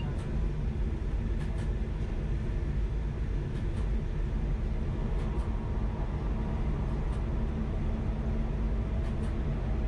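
High-speed train running at speed: a steady low rumble with faint light ticks now and then.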